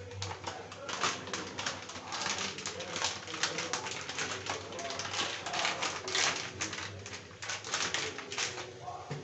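Irregular crackling and popping, several sharp pops a second, from cooking in an open pressure cooker on a gas stove, typical of something spluttering in hot oil.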